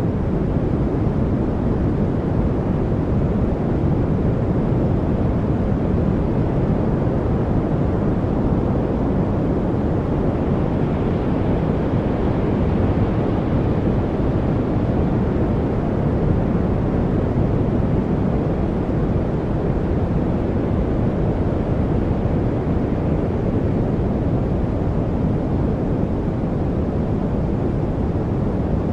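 Steady, deep rushing noise from a white-noise study track, heaviest in the low end, with no birds, drips or other distinct sounds standing out. It has just faded up and then holds even.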